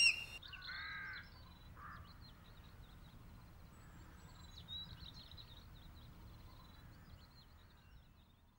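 Crow cawing twice, then faint high bird chirps that fade out.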